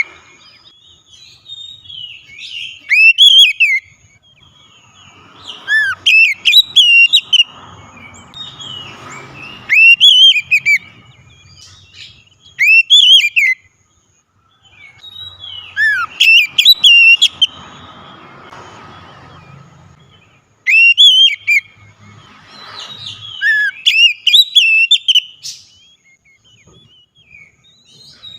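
Oriental magpie-robin (kacer) song: loud, sharply sweeping whistled phrases in short bursts about every three seconds. It is a lure song of the kind used to set other magpie-robins singing.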